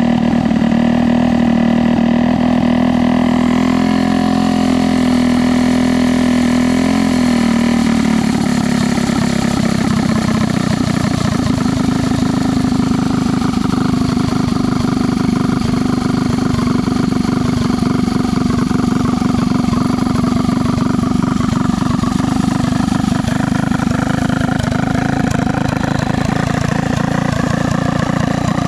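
Small single-cylinder four-stroke minibike engine running continuously, its note steady for the first eight seconds or so and then turning rougher.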